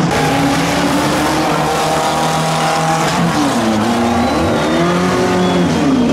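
Several banger racing cars' engines revving, their notes rising and falling over one another.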